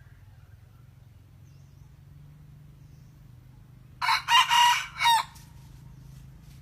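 A young red junglefowl cock crowing once, about four seconds in: a short, clipped crow of about a second, broken into several syllables.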